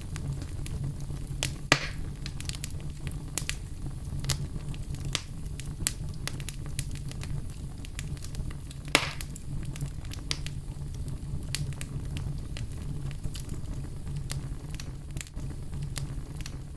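Wood fire burning in a fireplace: a steady low rumble of flame with frequent small crackles, and two louder pops about two seconds in and about nine seconds in.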